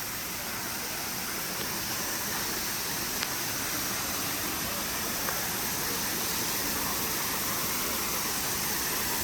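Steady rush of a waterfall, an even hiss of falling water that grows slowly louder.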